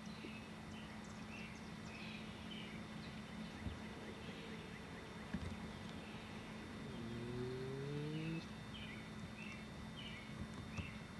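Outdoor background with small birds chirping again and again. An engine rises in pitch from about seven seconds in and stops rising a second and a half later, like a passing vehicle accelerating.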